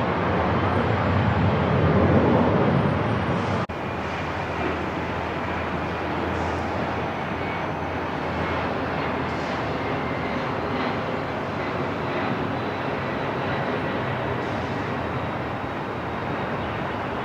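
Airport ambience: a steady wash of rumble and hiss with a heavier low rumble, in the manner of distant jet engines, that cuts off abruptly about four seconds in, followed by an even, unchanging background noise with a faint hum.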